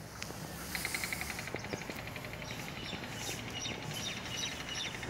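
Small bird calling outdoors: a fast, even trill of high chirps that starts about a second in, with a few separate higher chirps over it.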